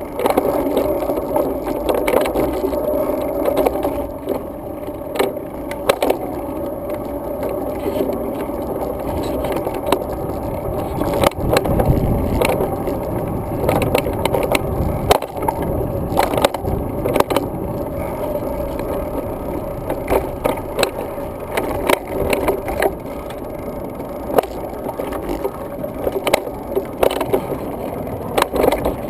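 Road bike rolling over pavement, its tyres running with a steady noise while the bike and camera mount rattle and knock sharply, many times, over bumps in the surface.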